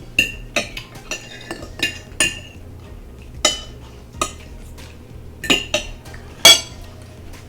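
Cutlery clinking against dishes at a meal: a dozen or so irregular sharp clinks with a brief ring, the loudest near the end.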